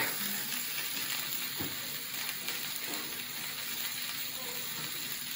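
Mopane worms frying in a pot, a faint steady sizzle with a few light crackles.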